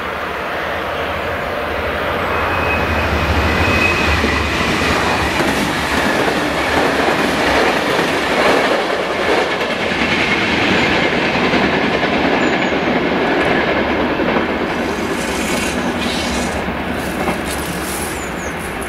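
A diesel multiple unit passing close by, its underfloor diesel engine running under the rumble of its wheels on the rails. The noise swells over the first few seconds and eases near the end. About three seconds in there is a brief high wheel squeal, and near the end the wheels click over the rail joints and points.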